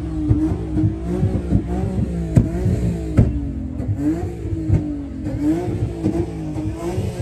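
Car engine held at high revs, its pitch rising and dipping again and again under the throttle, with frequent sharp cracks through it.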